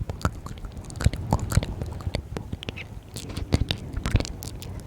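Close-miked ASMR mouth sounds: irregular wet clicks and smacks of the lips and tongue, several a second.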